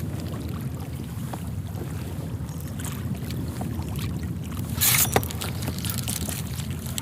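Steady low rumble of wind and water around a fishing kayak, with scattered small clicks and a brief hissing burst about five seconds in.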